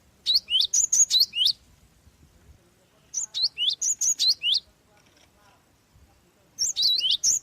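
Java sparrow (glatik) calling in three quick bursts of high, sharp whistled notes, each burst lasting about a second, separated by pauses of a couple of seconds.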